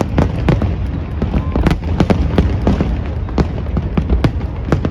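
Fireworks display over the river: rapid sharp cracks and bangs, several a second, over a constant deep rumble of shell bursts, with a crowd of spectators talking underneath.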